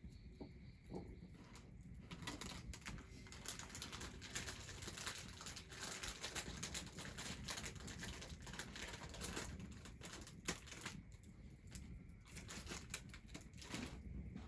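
Quick, irregular clicks and crackles in a dense run, thinning out near the end.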